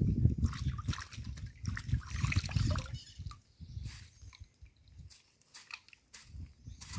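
Water sloshing and gurgling, with irregular low rumbles and scattered small clicks.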